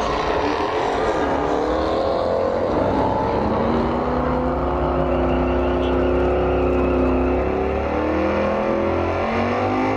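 Pontiac GTO's V8 engine held at high revs through a burnout, its pitch steady for several seconds, then dropping and climbing again near the end.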